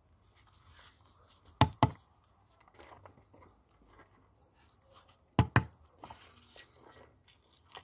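Sharp knocks in pairs: two quick strikes, then another pair about four seconds later, like a hard tool striking at construction work.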